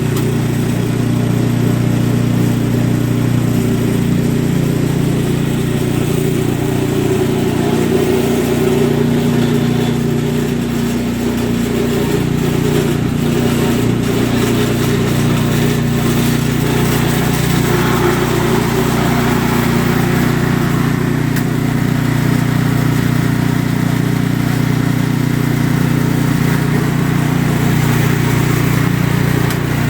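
Ariens two-stage snowblower's single-cylinder engine running steadily, test-run on fresh oil after an oil change to check that it runs.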